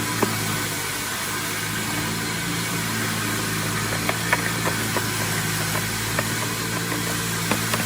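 Small lawn mower engine running steadily at idle, with a few light clicks over it.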